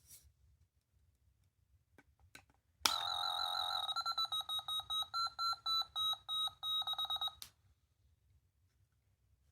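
Small electronic sound-making capsule toy clicked on, then giving a high electronic alarm-like tone: steady for about a second, then rapid beeping at about six a second, cutting off sharply.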